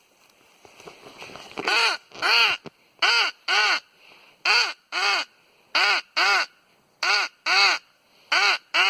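Nordik handheld crow call blown in pairs of caws, six pairs at an even pace, each caw rising then falling in pitch.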